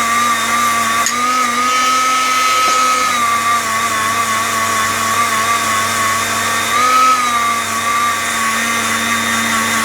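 A small high-speed rotary tool fitted with a wheel runs steadily as it cleans rust off the steel of a seized Record G-clamp. Its whine dips slightly in pitch a few times as the wheel is pressed against the metal.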